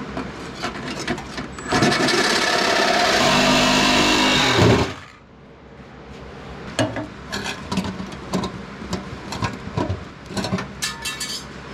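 A handheld power tool runs on sheet metal for about three seconds, a loud steady hiss that stops abruptly, as the welded patch is trimmed. Scattered light knocks and clicks come before and after it.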